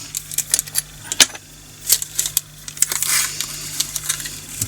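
Small plastic diamond-painting drills clicking and rattling in irregular sharp ticks as they are tipped from a bag into a small plastic storage container.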